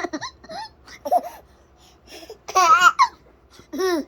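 A baby babbling and laughing in short bursts, with a loud wavering squeal in the second half and a shorter falling one near the end.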